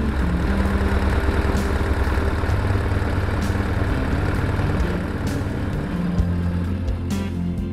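BMW R1150 RT's air-cooled flat-twin boxer engine idling steadily.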